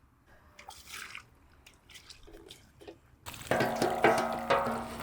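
Water being poured into a vessel: a few light knocks, then about three seconds in the pour starts suddenly and carries on with a ringing tone.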